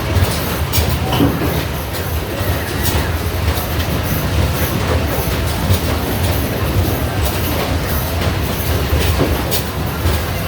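Basketball arcade machine in rapid play: balls thudding against the backboard and rim and rolling back down the return ramp, a dense run of irregular knocks over a steady low rumble of arcade noise.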